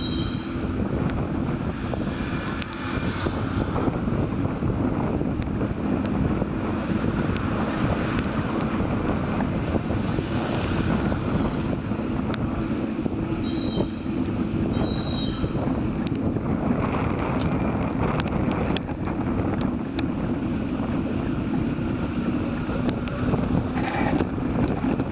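Steady wind noise rushing over the microphone of a moving bicycle ride, mixed with road noise and a faint steady low hum.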